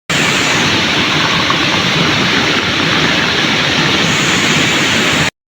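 Waterfall's water rushing in a loud, steady, even roar, which cuts off suddenly about five seconds in.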